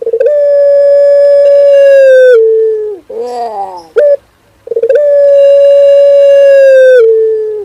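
Male puter pelung (Barbary dove) cooing: two long, drawn-out steady coos, each dropping a step in pitch at its end, with a short wavering, falling phrase between them.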